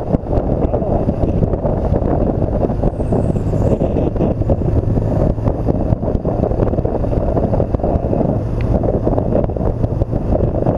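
Heavy wind buffeting on the microphone of a BMW R1200 GS Adventure rider at speed, with the motorcycle's steady low engine drone underneath.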